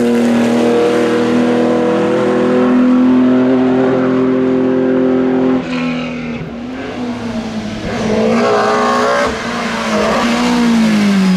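Historic racing car's engine at high revs on a hillclimb, holding a steady note for about five seconds, then dropping off sharply. It picks up again and its pitch slides down near the end.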